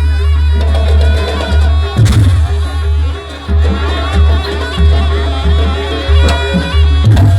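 Traditional East Javanese Jaranan Buto music: drums and gongs under a shrill, wavering reed-pipe melody. Sharp percussive strokes cut in about two seconds in and again near the end.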